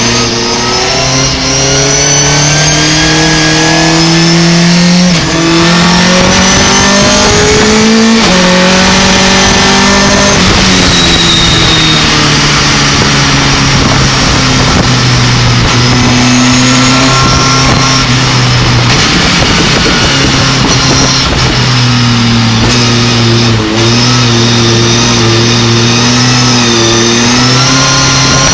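Racing pickup truck's engine under hard acceleration, its pitch climbing and then dropping at each gear change, several times over, with the engine settling and pulling again through corners.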